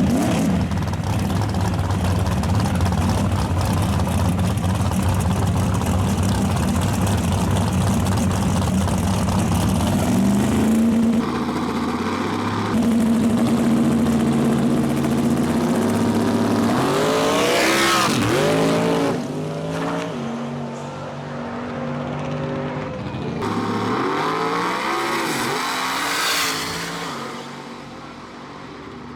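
Drag-racing car engines at full throttle, their pitch stepping up through gear changes and sweeping as the cars go by, then dying away near the end.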